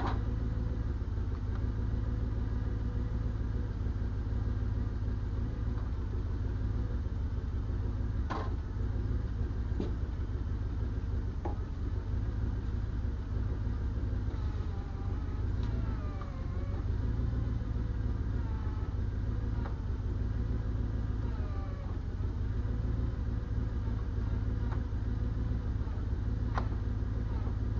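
Large diesel engine running steadily, with a few sharp clicks over it.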